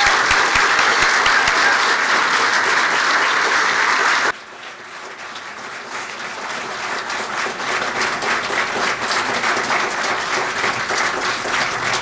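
Congregation applauding. The clapping is loud and dense at first, drops suddenly to a quieter level about four seconds in, then builds again.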